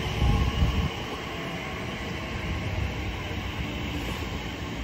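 Class 345 Elizabeth Line electric multiple unit pulling away from the platform, its wheels and running gear giving a steady rumble that is louder in the first second.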